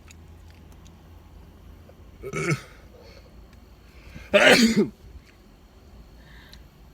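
Two short throat noises from a person, about two seconds apart, the second louder and longer.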